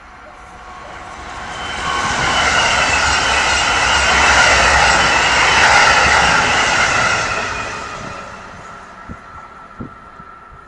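An Amtrak train on the Northeast Corridor passing at speed. A loud rush of wheels and air builds over about two seconds, holds for several seconds and fades away.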